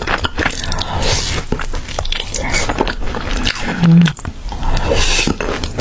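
Close-miked eating: crisp, crunchy bites and chewing come in quick irregular snaps, with a short low hum about four seconds in.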